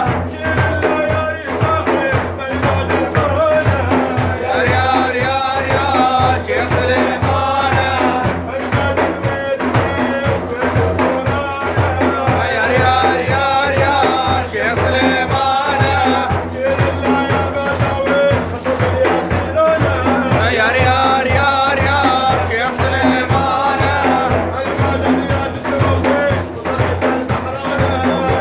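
Sufi devotional praise song (madih): a man's voice singing a wavering melody over a steady beat of drums.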